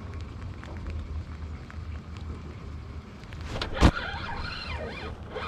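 Steady low wind rumble on the microphone with faint scattered ticks, then one sharp loud knock about four seconds in, followed by brief higher squeaky sounds.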